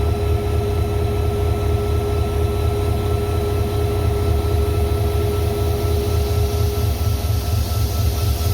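Train equipment running steadily: a continuous low rumble with a constant humming tone on top, the hiss growing slightly near the end.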